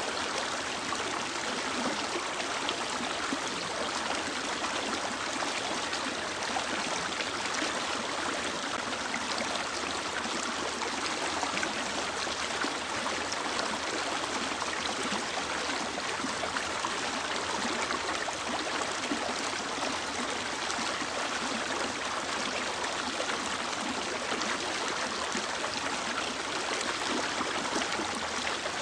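Mountain river flowing steadily, a constant rush of running water.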